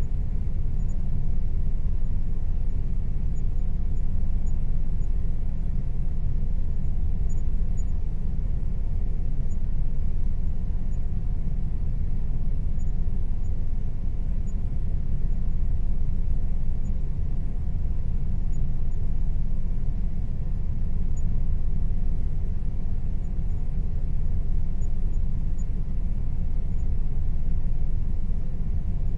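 Air conditioner running steadily: a constant low rumble with a faint steady hum above it, unchanging throughout.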